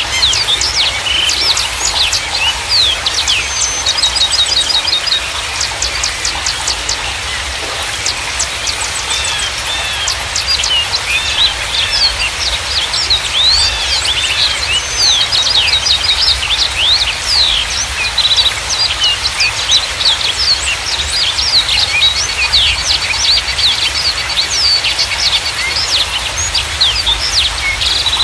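A dense chorus of small songbirds chirping and singing, with many quick overlapping chirps, whistles and short rapid trills, over a steady background hiss and a low rumble.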